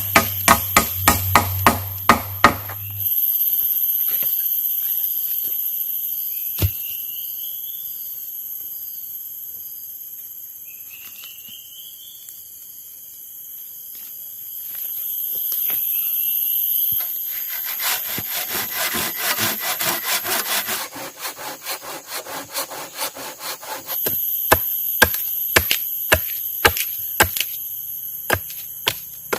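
Wood being cut with a hand tool: runs of quick, regular sawing and chopping strokes. Between them comes a long stretch of a steady high-pitched buzz with only a few scattered knocks.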